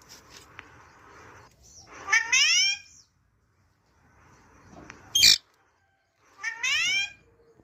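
Pet parrot calling: two drawn-out, wavering pitched calls with a short, piercing screech between them.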